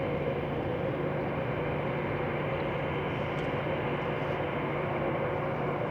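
Jet engines of a Boeing 737 BBJ (CFM56-7B turbofans) running steadily at low power during engine start-up on the apron: an even rush of noise with a steady hum and whine.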